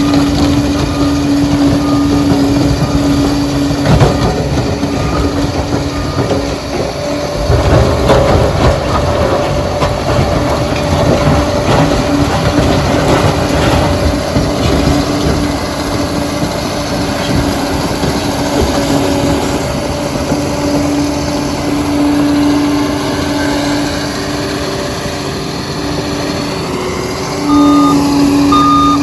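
Liebherr PR 746 crawler dozer running under load, its engine drone steady, with a few knocks around the fourth and eighth seconds. Its reversing alarm beeps for the first couple of seconds and again near the end as the machine backs up.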